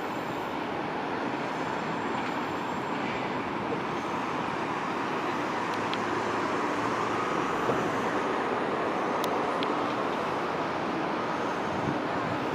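Jet engines of a Cessna CitationJet CJ2, a twin turbofan business jet, at takeoff power: a steady rushing roar with a faint whine that rises slightly in pitch and grows a little louder near the middle.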